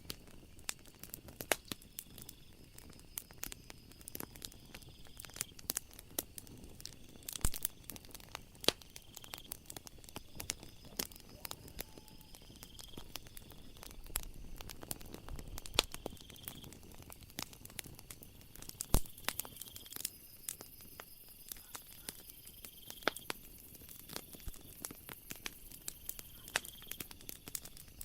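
Wood fire in a fireplace crackling and popping, with many small irregular snaps and a few louder pops. A steady high-pitched night-ambience chirping runs underneath, thickening about two-thirds of the way in.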